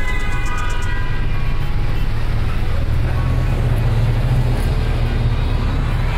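Steady, loud low rumble with a hiss on top, like road traffic noise. Sustained musical tones fade out about a second in.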